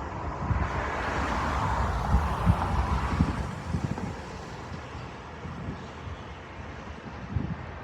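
Wind buffeting the microphone in irregular low gusts over a steady rushing outdoor background; the buffeting eases about three and a half seconds in.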